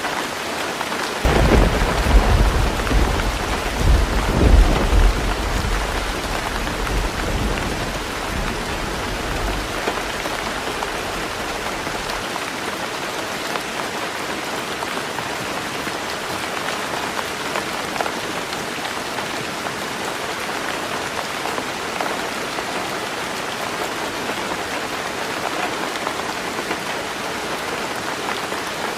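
Heavy rain drumming steadily on a tin roof. A thunderclap breaks about a second in, with two loud peaks, and its deep rumble fades out over the next ten seconds.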